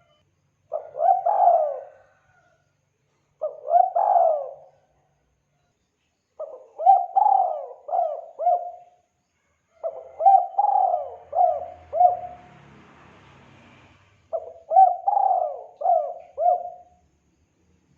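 Spotted dove cooing in five phrases. Each phrase is a run of two to five short coos, with pauses of one to two seconds between phrases.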